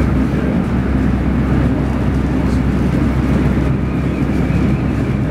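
Steady running noise inside a moving ex-SL X10 electric multiple unit: a loud, even low rumble with a hiss of wheel and track noise over it.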